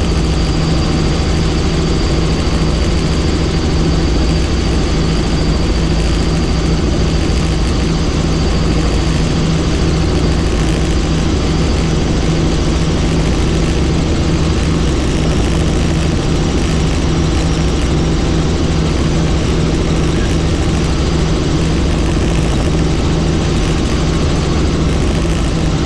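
Helicopter in flight: steady rotor and turbine noise with a constant low hum and a thin high whine that fades about halfway through.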